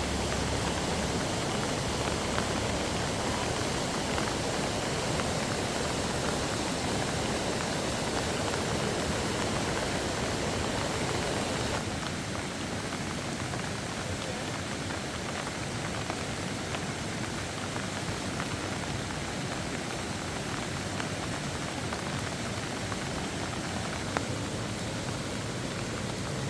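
Steady rain falling: a dense, even hiss with scattered drop ticks, dropping slightly in level about twelve seconds in.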